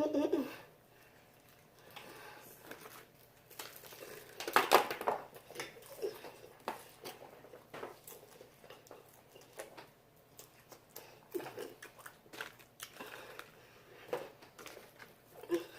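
Crispy fried chicken wings being bitten and chewed close to the microphone: irregular crunches and crackles, the loudest about five seconds in.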